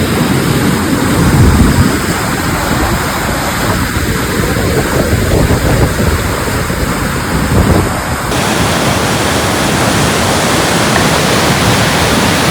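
Loud rushing of creek whitewater rapids, a continuous noise of churning water with uneven low rumbling. About eight seconds in, the sound changes abruptly to a more even hiss.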